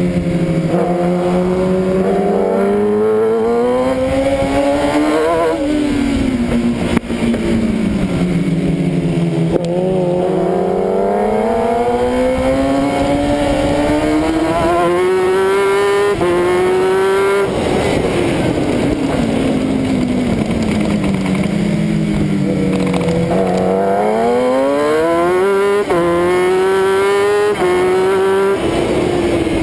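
1000 cc superbike engine at racing speed, heard on board: it revs up through the gears with sharp drops in pitch at each upshift, then winds down under braking, several times over. Wind noise runs under it.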